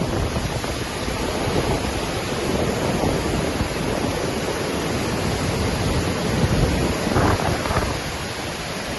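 Waterfall, a steady rush of falling water, with gusts of wind rumbling on the microphone.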